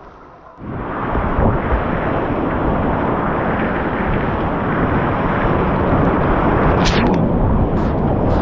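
Loud, steady rush of whitewater and splashing against an action camera's microphone, cutting in suddenly about half a second in, with a few sharp splashes near the end.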